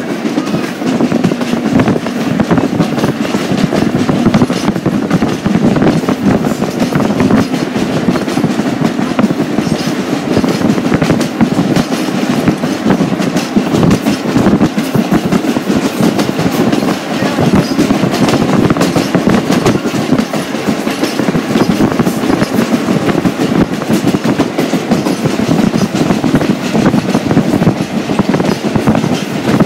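Rail car running along the track: a steady rumble with a continuous clickety-clack of the wheels over the rail joints.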